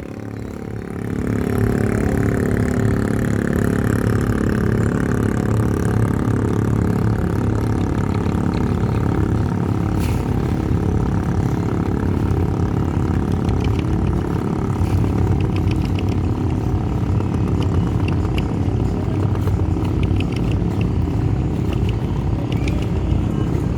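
A boat's engine running steadily at constant speed, a low hum that swells up about a second in and then holds even.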